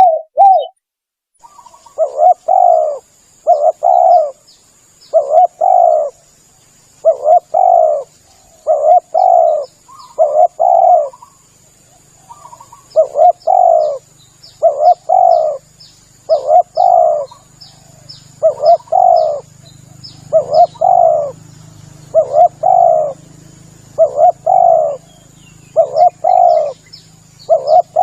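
Spotted dove (tekukur) cooing: loud phrases of two or three quick, throaty coos, repeated every second and a half or so, a call used as a lure for the species.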